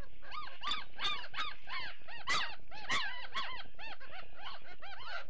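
A litter of Great Dane puppies whining and squealing, short rising-and-falling cries overlapping, about three or four a second.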